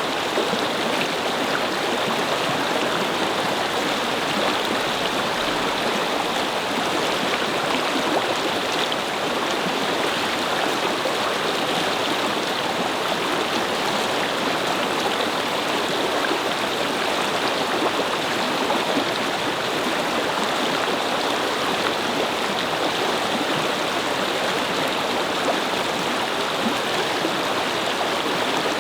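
A brook babbling over rocks, its water flowing in a steady, even rush.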